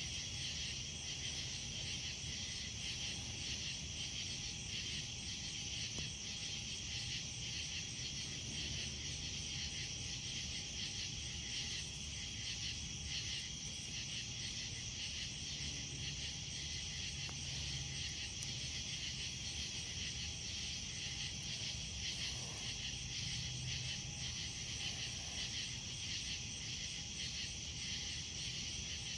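A steady chorus of night insects chirping in dense, even pulses, with the low sound of a campfire burning underneath.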